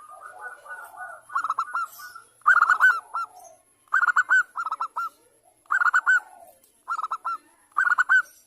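Zebra dove (perkutut) cooing: a series of short bursts of quick, rippling staccato coos, repeated about once a second and growing louder after the first couple of seconds. The call is a perkutut female's call used as a lure to draw males into calling.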